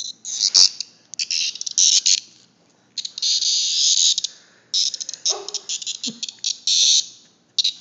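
A caught cicada buzzing in a run of loud, raspy bursts, each lasting from a fraction of a second to over a second, with short gaps between: the distress buzz of a cicada that is being held.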